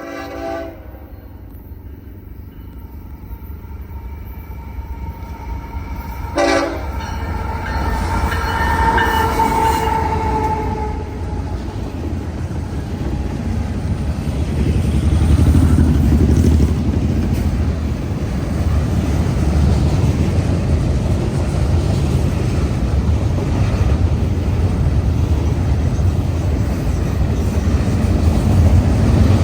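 Nathan K5HL locomotive horn on a freight train: a short chord blast at the start, then a longer blast of about four to five seconds. Under the horn, the low rumble of the train passing by grows steadily louder.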